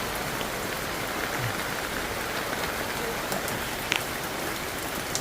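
Steady heavy rain falling and pattering on surfaces, with one sharp tap about four seconds in.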